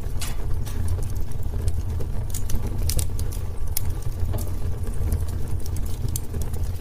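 Wood fire burning in a fireplace: a steady low rumble of the flames with irregular sharp crackles and pops from the burning wood, a few louder pops clustered about two to four seconds in.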